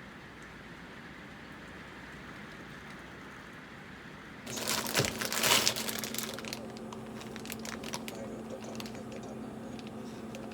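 Steady faint hiss, then about four and a half seconds in, irregular crinkling and crackling handling noises begin, with a low steady hum under them.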